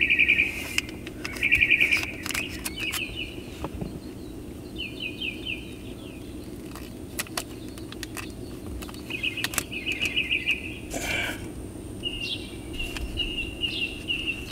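A songbird singing short phrases of rapidly repeated notes, about half a dozen phrases in all, over a steady low hum. A few faint clicks and rustles of handling come through in between.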